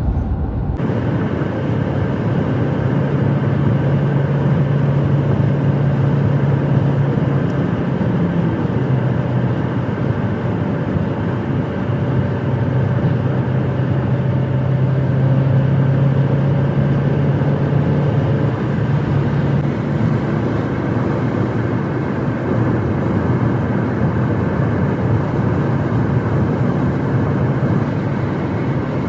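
Steady drone of a truck driving at highway speed, heard from inside the cab: a low engine hum over continuous road and tyre noise.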